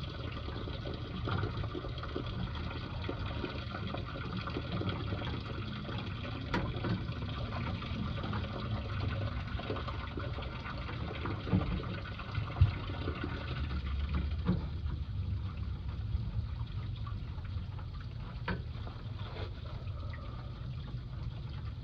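Water running steadily from a leaking copper hot-water line, with a few sharp knocks now and then.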